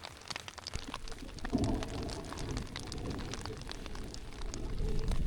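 Heavy rain pattering, with many separate drop taps, and a low rumble coming in about a second and a half in and lasting to the end.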